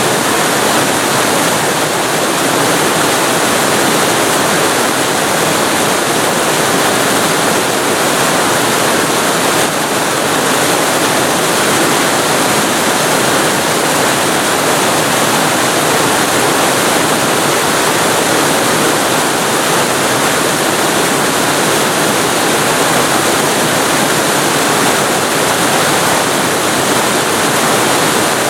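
Waterfall recorded very close to the falling water: a loud, steady rushing roar with no breaks or changes.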